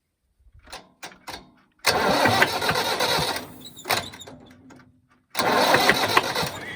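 International diesel tractor engine being cranked on its starter in two bursts of about a second and a half each, after a few faint clicks, with a pause between the attempts. It is a cold start after 20 years standing, on a new diesel injection pump.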